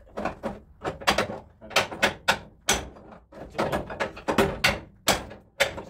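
Hammer tapping on a car body panel: quick, irregular sharp metal strikes, about three a second.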